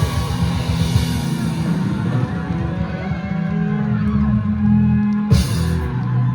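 Live rock band with electric guitars, bass and drum kit playing the final bars of a song. It ends on a crash about five seconds in and a held, fading chord.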